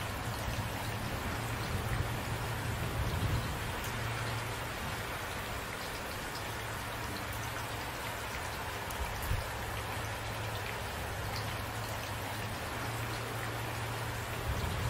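Steady rain falling, with scattered drops ticking on surfaces and a low rumble underneath.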